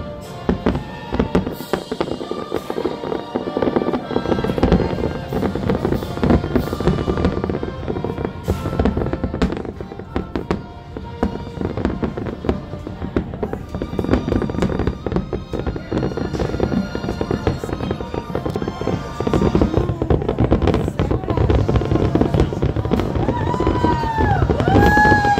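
A fireworks display: a dense, continuous run of bangs and crackles from aerial shells bursting, with high whistles rising and falling near the end.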